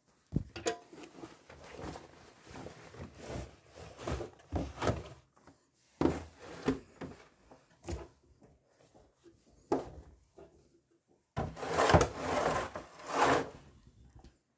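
Laundry being handled and pushed into a washing machine drum: fabric rustling and rubbing with scattered knocks, and a louder clatter of handling near the end.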